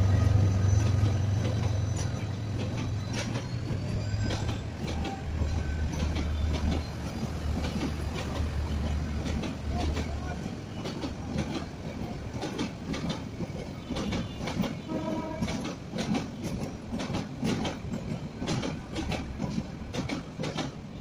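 Diesel-hauled passenger train passing: the locomotive's low engine drone fades out over the first ten seconds, and the coaches' wheels keep clicking over the rail joints, with a few brief high wheel squeals.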